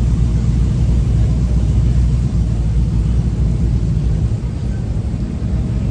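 Vehicle engine running steadily at idle, a deep low rumble.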